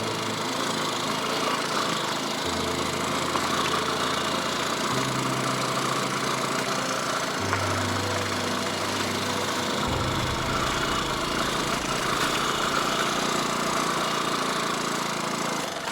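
Motorcycle engine running steadily on the move, with road noise. A low bass tone underneath steps to a new note every couple of seconds.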